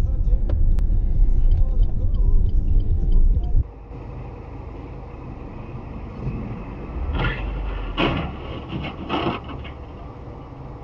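Road vehicle driving noise picked up by a dashcam: a loud low rumble that cuts off abruptly a little over a third of the way in, giving way to quieter traffic noise with a few short sounds near the middle.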